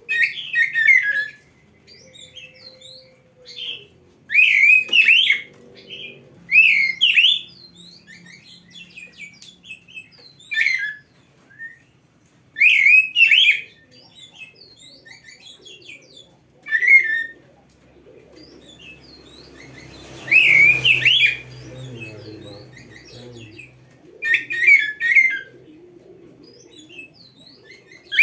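Oriental magpie-robin singing: short bursts of quick, sweeping whistled phrases, repeated every second or two with brief pauses between them.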